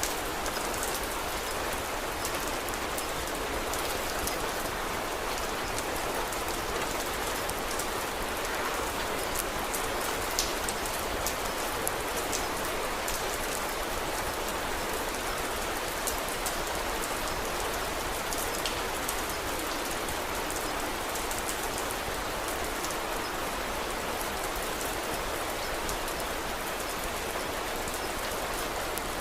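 Steady rain falling, an even hiss with many small scattered ticks of drops.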